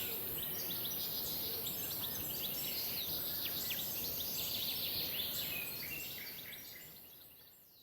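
Birds chirping and calling in many short high notes over a steady outdoor background, fading out near the end.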